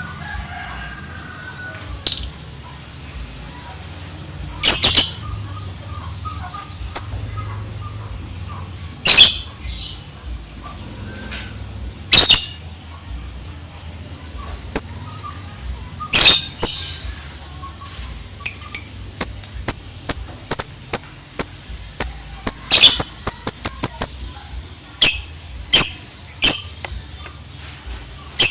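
Lovebird singing: loud, shrill single calls every few seconds, then about two-thirds of the way through a fast run of short, sharp chirps, the rapid ticking 'ngetik' (typing) song.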